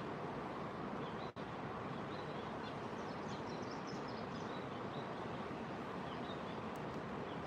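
Steady outdoor background noise with faint, scattered high bird chirps. The sound drops out for an instant about a second and a half in.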